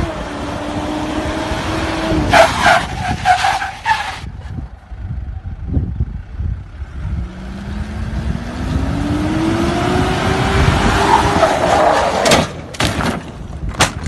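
SUV engine revving as it drives on pavement: its pitch falls early on, then climbs steadily for several seconds as it accelerates. A few short harsh bursts come about two to four seconds in, and sharp knocks near the end.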